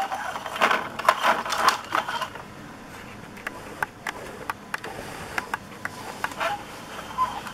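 Plastic toy fire truck being handled: a run of rattling and knocking over the first two seconds, then scattered light clicks.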